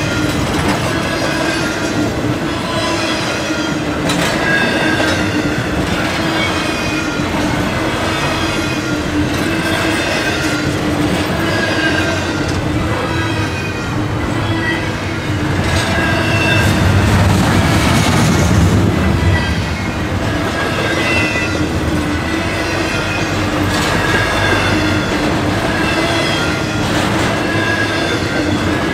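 Canadian Pacific double-stack intermodal container cars rolling past on the rails: a steady rumble of steel wheels on track, with short high-pitched tones from the wheels recurring about once a second. The rumble swells louder for a few seconds just past the middle.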